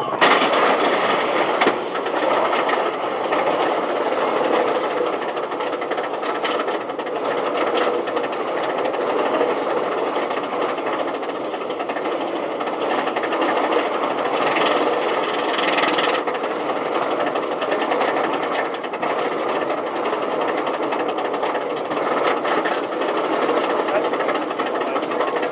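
Steel Vengeance roller coaster train clattering steadily, a rapid, even mechanical rattle typical of a train being pulled up the chain lift hill.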